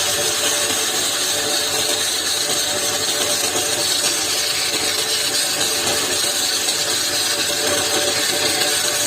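A woodworking power tool running steadily on wood: a continuous even whir and hiss with a steady hum underneath, without a break.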